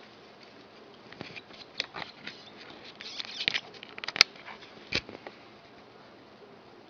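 Hedgehog and newborn hoglets stirring in wood-shaving bedding: a scattered run of small, sharp clicks and rustles, the sharpest about four seconds in.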